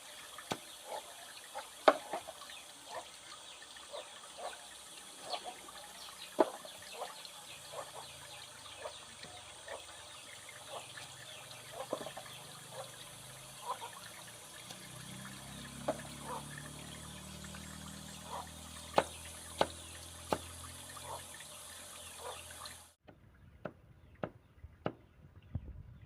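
Running, splashing water with many scattered clicks and knocks. A low hum joins in partway through, and the sound cuts off abruptly near the end.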